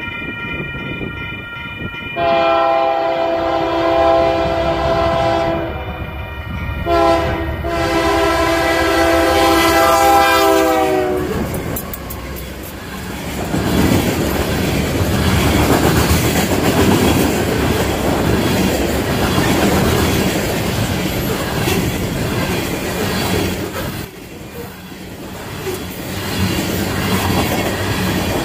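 Union Pacific coal train's diesel locomotive horn sounding a chord for a grade crossing, faint at first, then two long loud blasts, the second falling in pitch as the locomotive passes. After that, the three GE AC4400CW locomotives and then the coal hoppers roll past with a steady rumble and wheel clatter.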